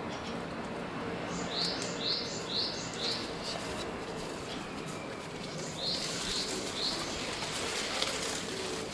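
A small bird calling outdoors in short rising chirps, about two a second: a run of five, then three more after a pause.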